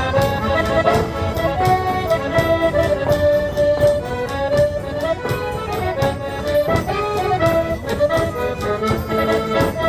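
Portuguese folk ensemble music led by accordion, playing a lively traditional dance tune over a steady beat.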